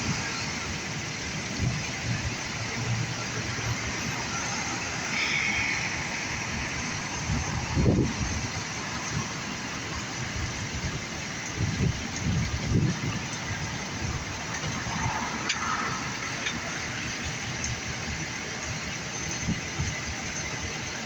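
Steady vehicle running noise with a few low thumps.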